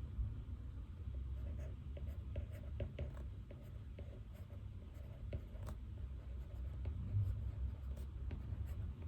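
Pen writing on paper: irregular light scratches and small taps, over a steady low room rumble.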